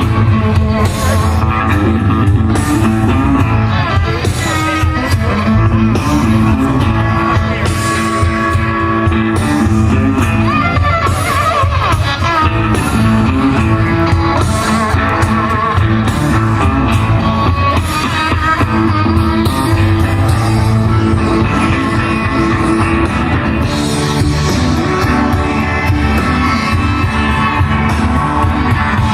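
A blues band playing live: a continuous, loud number with a steady beat.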